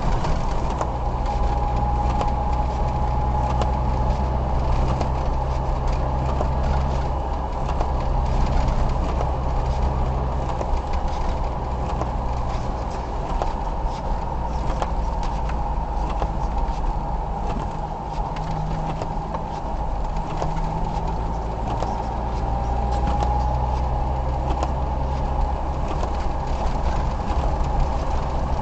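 Car cabin sound while driving in snow: the engine's steady low hum under road and tyre noise. A faint higher tone comes and goes twice.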